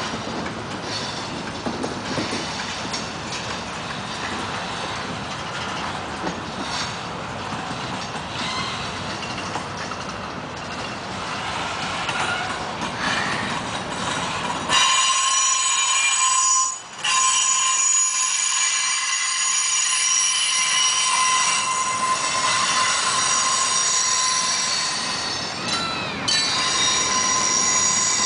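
Freight cars of a long CSX train rolling past with a steady rumble of wheels on rail. About halfway through, a loud, high-pitched wheel squeal with several steady tones sets in and holds to the end.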